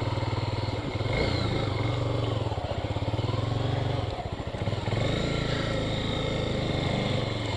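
A single-cylinder Honda motorcycle engine running steadily under way. It eases off briefly about four seconds in, then picks up again.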